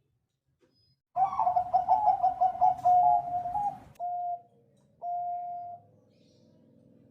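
Zebra dove of the Bangkok strain (perkutut Bangkok) cooing: after a second of silence, a fast run of short clipped notes that ends in a held coo, then two more single held coos.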